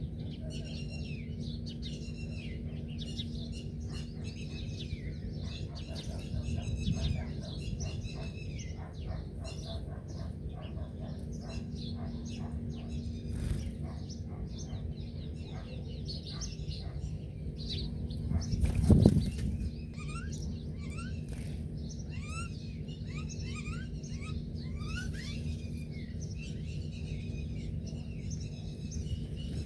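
Several wild birds chirping and singing in quick, overlapping phrases over a steady low hum, with a run of short rising notes partway through. About two-thirds of the way in, a brief loud rush of noise stands out above everything else.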